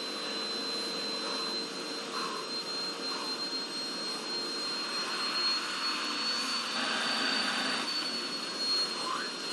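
Vacuum cleaner motor running steadily with a high whine, the whine rising slightly in pitch midway and settling back.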